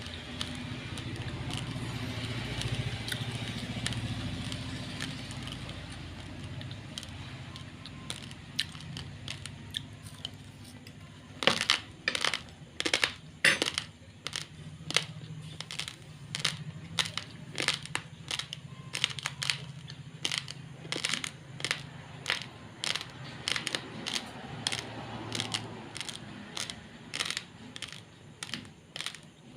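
Raw, uncooked basmati rice grains being chewed close to the microphone: after a softer continuous rustle, sharp crunches start about a third of the way in and keep coming at about two a second.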